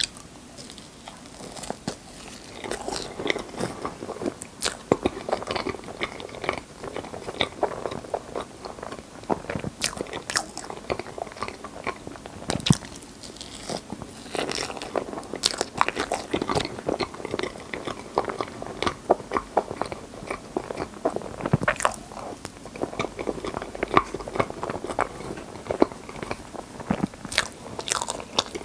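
Close-miked chewing of soft, creamy rainbow crepe cake: wet mouth and lip smacks with many short sharp clicks, in an irregular run.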